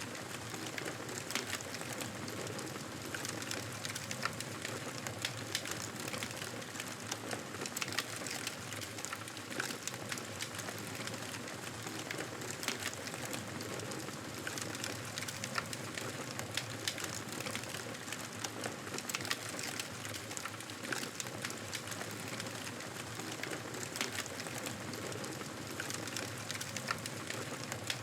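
Wood fire crackling in a fireplace: a steady hiss with frequent small, irregular pops and crackles.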